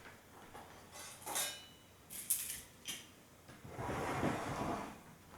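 Objects being handled: a few light clicks and knocks, then about a second of rustling.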